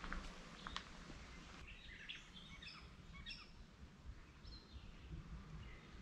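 Faint birds chirping in a series of short, high notes, with a couple of soft footsteps in the first second.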